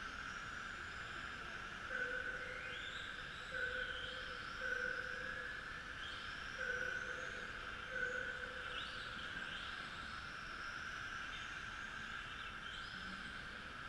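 Several electric radio-controlled Tamiya TT-01E trucks racing, their motors whining and repeatedly rising in pitch as they accelerate. The sound swells every second or two as cars pass close by.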